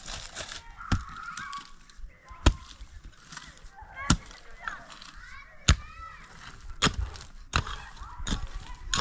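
Poultry honking calls over about seven sharp knocks, like hammer blows, spaced roughly a second or so apart.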